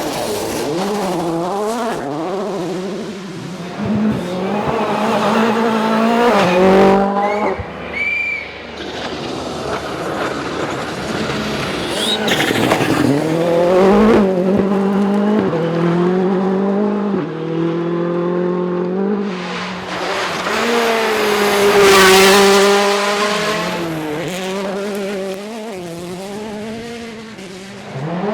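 World Rally Cars' turbocharged 1.6-litre engines revving hard as the cars drive a stage, pitch climbing and dropping again and again with gear changes and lifts. The loudest, closest pass comes about three-quarters of the way through.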